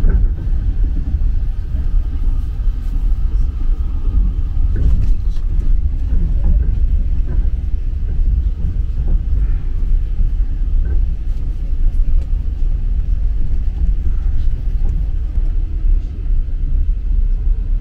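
Passenger train carriage on the move, heard from inside: a steady low rumble of the running gear on the rails.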